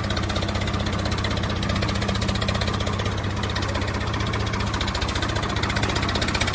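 Tractor engine idling steadily with an even, rapid firing beat.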